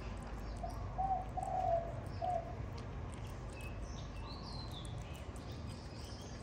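Birds: a short phrase of four low cooing notes about a second in, the third drawn out, then a few higher chirps later on.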